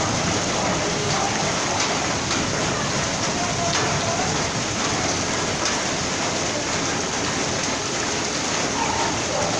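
Heavy rain falling steadily, with a few sharper drops or splashes standing out here and there.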